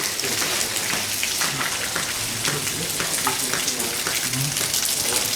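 Heavy rain falling: a steady hiss with scattered drop ticks.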